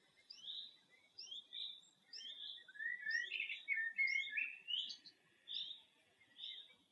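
Faint birdsong: short chirps repeating throughout, busier and louder in the middle.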